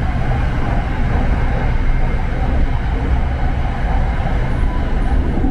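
Steady running noise of an SRT Red Line electric commuter train at speed, heard inside the carriage: a deep, even rumble of wheels on rail with a hiss above it.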